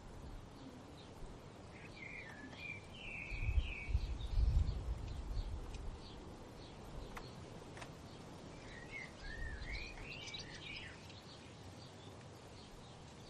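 Birds singing: a warbled song phrase about two seconds in and another about nine seconds in, over short high chirps repeating from other birds. A low rumble from about three and a half to five seconds in is the loudest sound.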